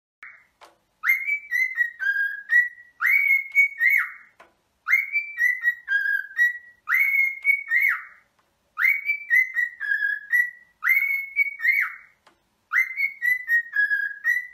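A bird whistling the same short phrase over and over, about once every two seconds, seven times: a few clear notes at one pitch with a lower dipping note in the middle.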